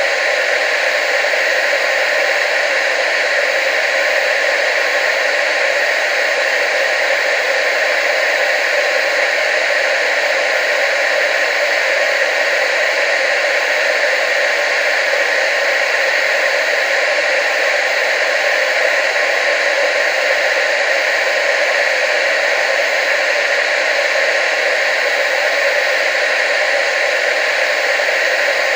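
Television static: a steady, unchanging hiss with no bass.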